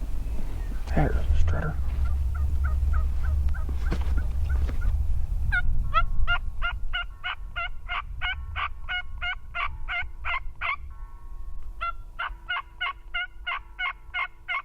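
Turkey yelping: two long runs of evenly spaced yelps at about four a second, with fainter notes and wind rumbling on the microphone before them.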